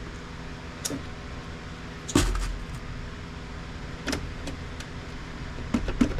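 A handful of separate knocks and clicks from a tool and the plastic housing of an HP inkjet printer being handled while screws are taken out of its underside. The loudest knock comes about two seconds in.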